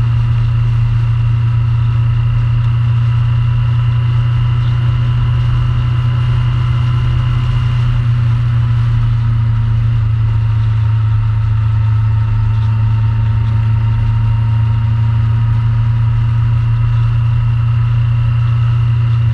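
Yamaha FJR1300 motorcycle's inline-four engine running steadily at cruising speed, with a slight drop in pitch about halfway through.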